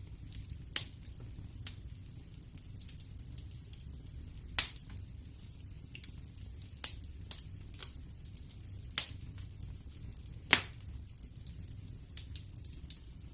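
Wood fire burning in a fireplace: a low steady rumble of flames with scattered crackles and five sharp, louder pops spaced a second or two apart.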